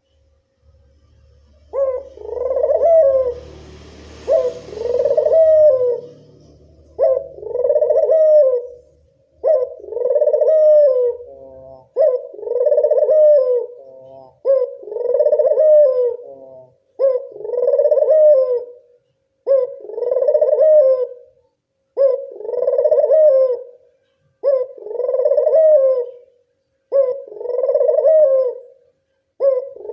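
Local puter dove cooing: a repeated coo, one phrase about every two and a half seconds, used as a lure call to draw in wild puter doves. A brief hiss and low rumble sit under the first few calls.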